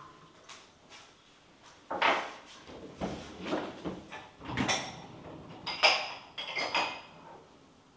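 A run of knocks, clicks and clatters of household things being handled, like a drawer or door being worked, starting about two seconds in after a quiet start.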